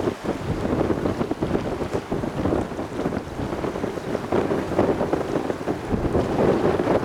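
Wind buffeting the microphone: a steady, rough rumble with no distinct events.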